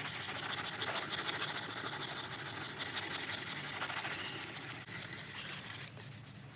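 Hand sanding block with 180-grit paper rubbing over cured fibre filler on a plastic car bumper: a steady scratchy hiss that eases off near the end.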